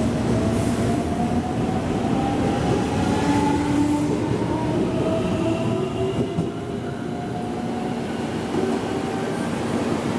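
Electric train running through the station, its motors giving a whine that rises slowly in pitch over a steady rumble, with faint clicks of wheels over rail joints.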